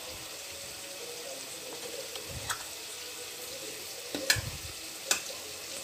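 Faint steady sizzle of food frying in oil, with three light clicks of kitchen utensils.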